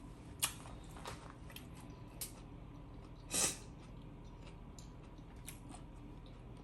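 Close-up eating sounds: chewing a sandwich with soft, scattered wet smacks and clicks, and one louder, longer noisy smack or slurp about three and a half seconds in.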